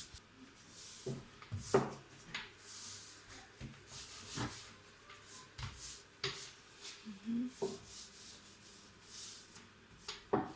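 Rubbing and scraping with scattered light knocks, the sound of materials and tools being handled.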